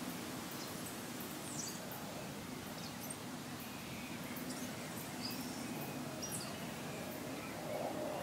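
Songbirds chirping in a leafy yard: scattered short, high calls and quick falling whistles over a steady outdoor background hum.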